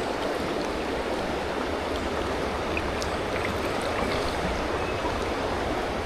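Steady rush of a fast-flowing river running over stones, the water still high and pumping.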